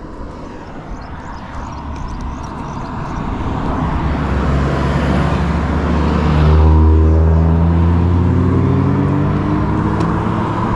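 Wind rushing over the helmet-mounted camera's microphone as the e-bike picks up speed downhill, getting louder over the first half. From about halfway a hum that slowly rises in pitch runs under the wind noise.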